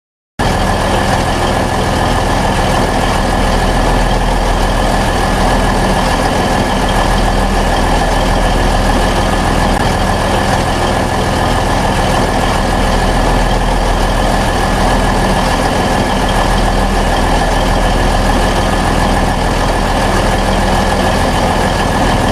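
Twin-engine diesel-hydraulic locomotive running steadily at idle, with a steady high whine over the engine note. It starts abruptly about half a second in and cuts off at the end.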